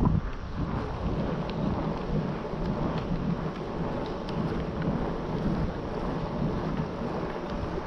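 Wind buffeting the microphone of a camera carried on a moving bicycle, a steady low rumble, with a few faint ticks.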